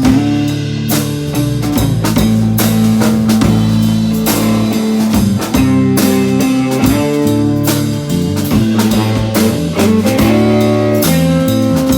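Country-rock band playing an instrumental passage: guitar over a steady drum-kit beat, with no singing.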